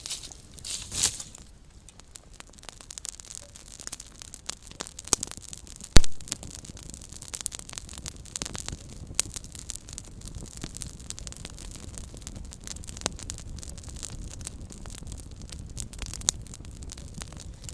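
Small wood campfire crackling: a dense run of sharp pops and snaps over a low rumble of flame, with a brief hiss about a second in and one much louder pop about six seconds in.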